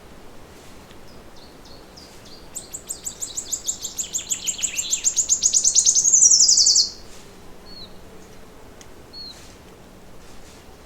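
A songbird singing one long song, a run of rapid notes that speeds up and grows louder for about four seconds and then stops suddenly, followed by a few short chirps.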